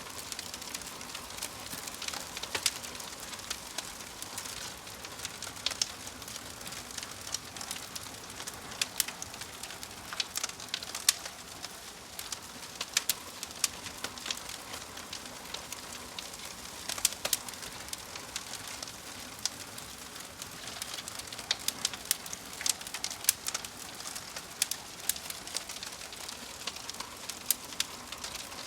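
Wood fire crackling: irregular sharp pops and snaps, several a second, over a steady hiss of burning.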